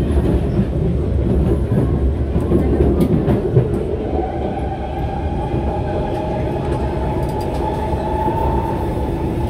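SMRT C151 train running on elevated track, heard from inside the car: a steady rumble of wheels and running gear. About four seconds in, a whine comes in and rises slightly in pitch.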